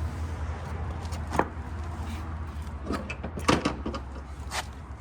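Clicks and knocks of an intake-boot clamp being worked onto a motorcycle carburetor boot by hand, four or five short sharp sounds, the loudest about three and a half seconds in, over a steady low hum.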